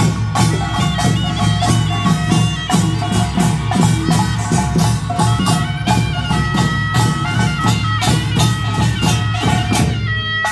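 Korean nongak farmers' band playing at full volume: a piercing taepyeongso shawm melody over fast, dense beats of small gong, hourglass drum and barrel drums. Near the end the heavy low drumming drops away, leaving the shawm and lighter strikes.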